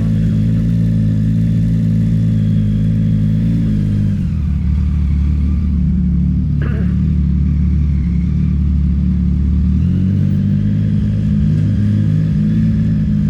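A 2024 Yamaha XSR900's inline-three engine running under way at steady revs. The revs drop about four seconds in, then rise back up near ten seconds. There is one brief sharp sound in between.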